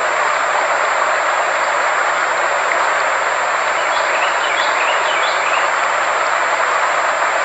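Sound-therapy frequency track: a steady, even noise with a constant high-pitched tone running through it, and a few faint short chirps about four to five seconds in.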